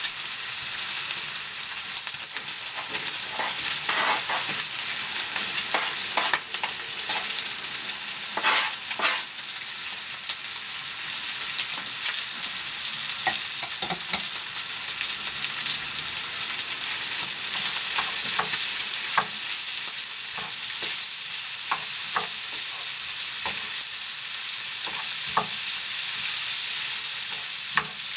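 Bacon bits, joined by sliced onion, frying in a frying pan: a steady sizzle with frequent sharp crackles and pops. A wooden spoon stirs through the pan near the end.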